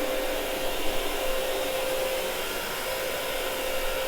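Carpet-cleaning machine running steadily, an even motor noise with a constant hum, as it is worked across carpet.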